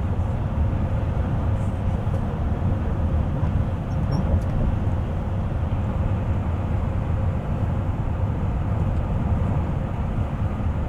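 Bus driving at a steady speed: a constant low rumble of engine and road noise, with a faint steady hum.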